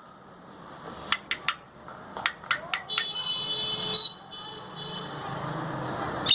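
Grey parrot making a string of sharp beak clicks, then a buzzy, beep-like tone about three seconds in that ends in a short rising whistle, and another short whistle at the very end.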